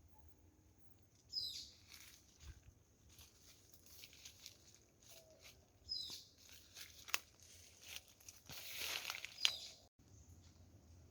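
A bird gives short high chirps a few times, with scattered rustling and crackling; a louder stretch of crackling comes near the end.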